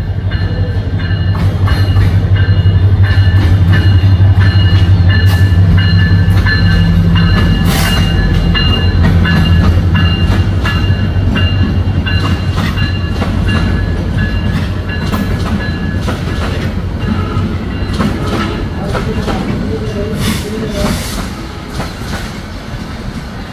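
Bangladesh Railway diesel-electric locomotive and its intercity coaches running slowly past on arrival: a loud low engine drone for the first ten seconds or so, then mostly the coaches' wheels clacking over the rail joints as the sound gradually fades. A thin steady high squeal runs over it for much of the first part.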